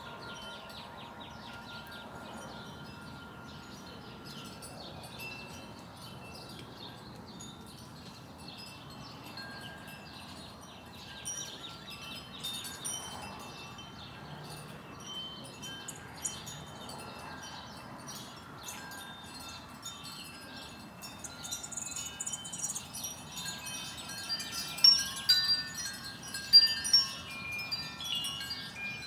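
Wind chimes ringing irregularly in a breeze, the tones coming more often in the second half, with a few louder strikes near the end.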